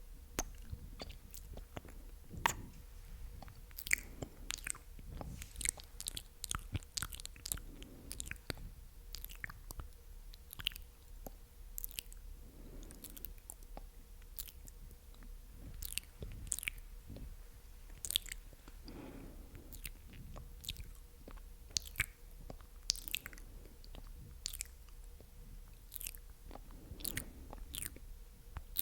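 Close-miked ASMR mouth sounds: wet, sticky clicks and smacks of the tongue and lips, coming irregularly, several every second.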